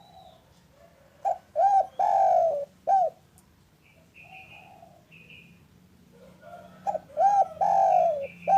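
Spotted dove (derkuku) singing: two loud cooing phrases about five seconds apart, each a couple of short notes, one long drawn-out coo and a closing short note. Softer coos fall between them, and faint higher chirps come in the middle and near the end.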